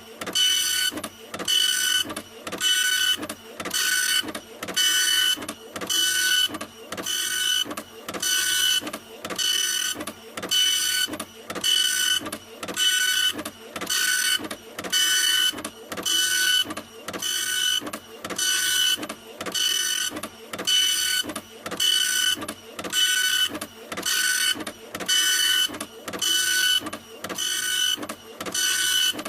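Printer printing, its print head sweeping back and forth in an even rhythm of about one pass a second, each pass with a steady whine over a noisy hiss.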